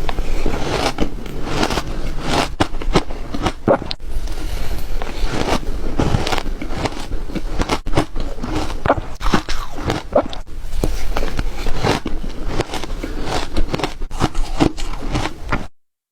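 Ice being bitten and crunched close to the microphone: a continuous run of sharp, irregular cracks and crunches, cut off by a brief drop to silence just before the end.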